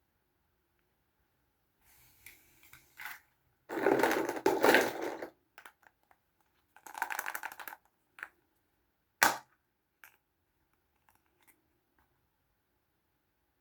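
Small plastic Kinder Surprise toys and their packaging being handled: bursts of scraping and rustling, then one sharp click about nine seconds in, followed by a few faint ticks.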